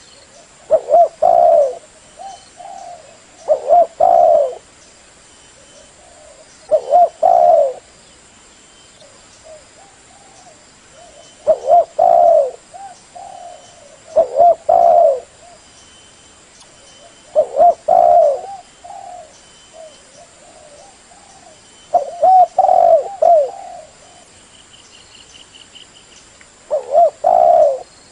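Spotted dove (tekukur) cooing: a repeated multi-note coo phrase every three to five seconds, with softer notes between phrases. This is the call used to lure spotted doves.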